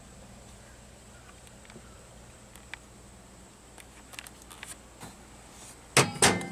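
Light clicks and taps of objects being handled at a microwave oven, then two loud clunks close together near the end, with a brief ring: the microwave door being shut and latched.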